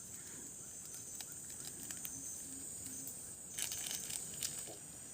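Steady high-pitched insect chorus, with a brief cluster of sharp clicks and rustling a little past the middle.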